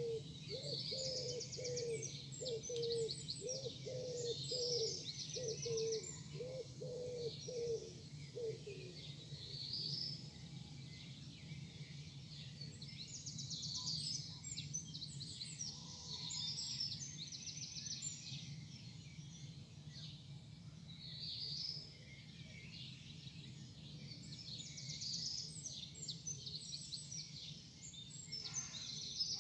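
Morning birdsong: a songbird repeats a high phrase ending in a trill every few seconds. For the first eight seconds or so, a low cooing call repeats a little more than once a second, over a steady low hum.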